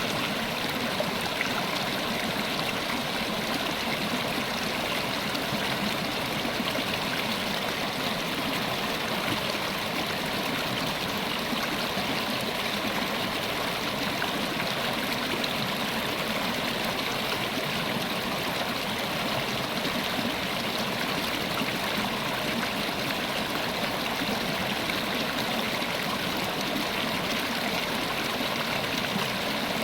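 River water flowing steadily, an even rushing and burbling with no pauses.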